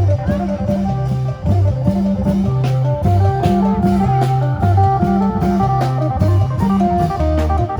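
Isan phin band playing a lively lam phoen groove: a plucked phin lute melody over a stepping bass line and a steady drum beat.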